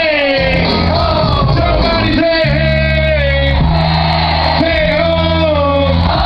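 Live hip-hop concert sound played loud: long held bass notes under voices singing and shouting.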